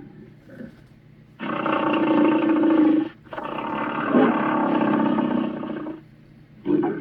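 Monster roar sound effects for the demon Chernabog: two long roars, the second longer than the first, then a short burst of sound near the end.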